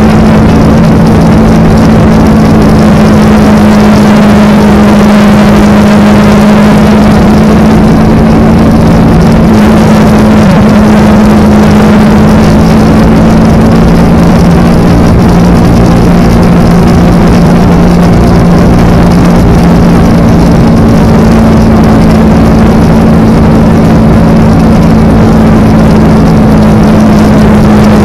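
Kawasaki Ninja sport bike's parallel-twin engine running at a steady cruise, its note holding an almost constant pitch.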